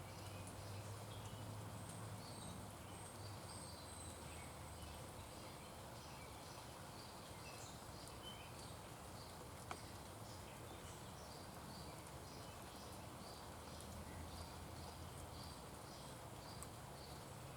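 Faint outdoor ambience of birds chirping, with short high chirps repeating every half second or so and a thin high whistle a couple of seconds in, over a steady low hum. A single sharp click sounds about ten seconds in.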